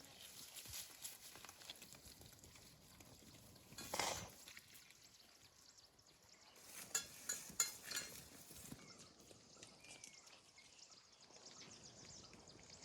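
Quiet rural outdoor ambience with faint animal sounds: a short rustling burst about four seconds in, then a quick cluster of sharp, high chirps or clicks a few seconds later.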